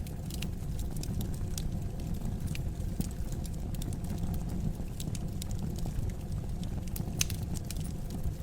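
Fire in a fireplace crackling: scattered sharp pops and snaps over a steady low rumble, with one louder pop about seven seconds in.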